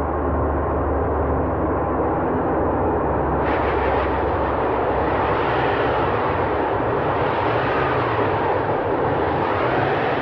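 Loud, steady rumbling noise, which turns brighter and hissier about three and a half seconds in.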